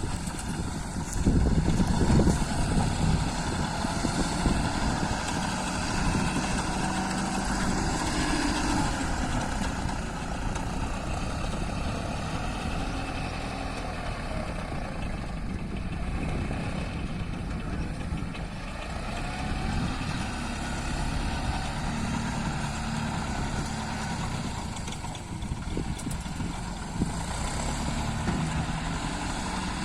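Tractor engine running steadily, its level and pitch wavering a little.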